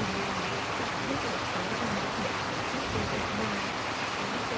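Steady rushing storm noise of wind and rain, with a faint wavering voice underneath.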